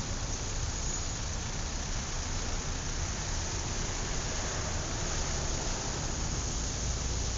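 Steady road-traffic noise: an even hiss over a low rumble.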